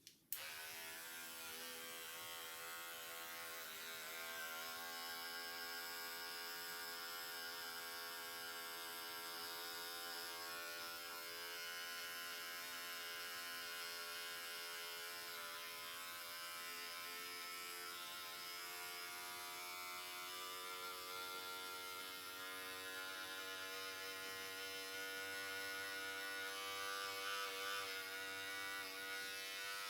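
Electric hair clippers switched on with a click just after the start, then buzzing steadily, the pitch wavering slightly.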